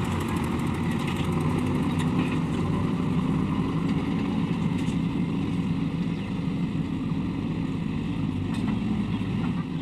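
Diesel engine of heavy machinery running steadily, a low continuous hum that eases slightly about six seconds in.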